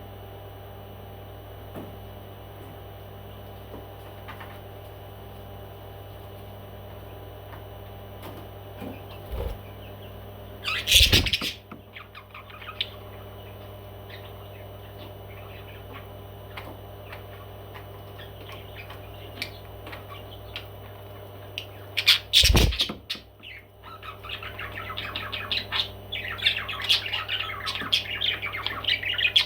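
Pet parrot squawking and chattering over a steady low hum. Two loud sudden calls come about 11 and 22 seconds in, then continuous chatter over the last few seconds.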